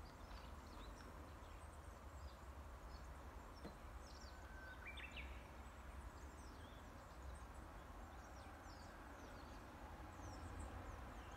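Faint wild birdsong: scattered short, high chirps, and about four and a half seconds in one held whistled note followed by a quick higher flourish, over a low steady rumble.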